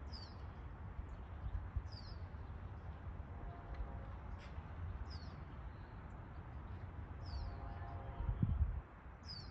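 A bird repeating a short, falling chirp about every one and a half to two seconds, over a steady low rumble.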